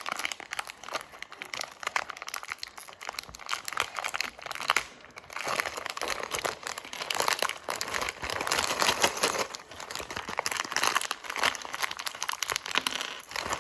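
Thin plastic bag of building pieces being crinkled and pulled open by hand, with continuous irregular crackling and occasional tearing.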